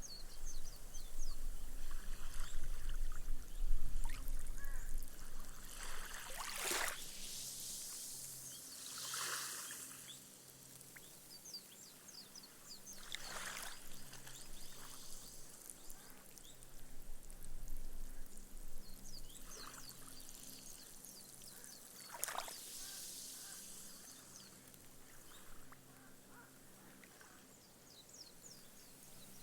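Gentle ripples washing up a sandy beach, each wash followed by the fizz and fine crackle of foam bubbles bursting as the water soaks into the sand. The washes come every few seconds, with the loudest near the start.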